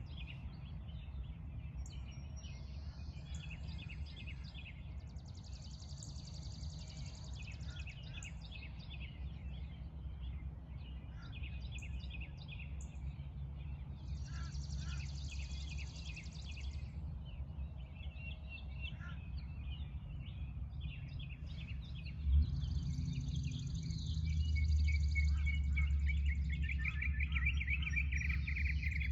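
Several birds chirping and singing in overlapping short calls and buzzy trills, over a steady low rumble. A single thump comes about 22 seconds in, and the rumble grows louder soon after.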